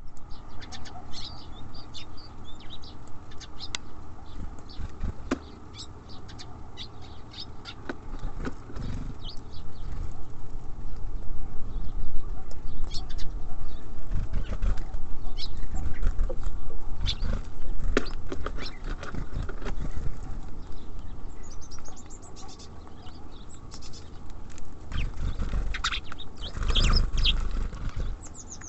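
Small birds (tits and sparrows) at a bird feeder: wing flaps as they land and take off, short high chirps, and sharp knocks against the feeder. There are busier spells in the middle and near the end.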